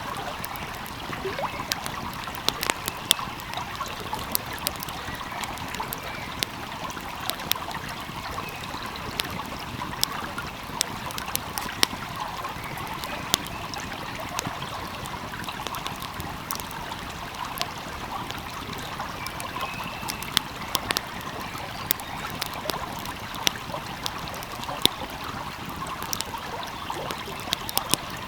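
Wood fire crackling with frequent sharp, irregular pops over the steady rush of a flowing stream.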